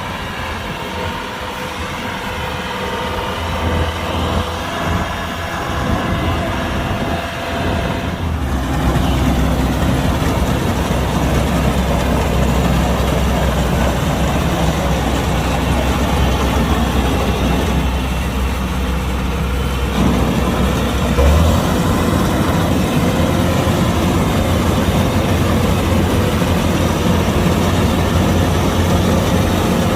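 Kubota DC-105X combine harvester's diesel engine and machinery running steadily, growing louder and fuller about eight seconds in.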